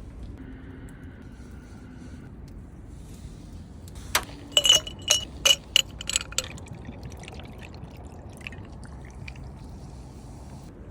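A quick run of about eight sharp clinks of hard objects knocking together, each with a brief ringing tone, over a low steady background rumble.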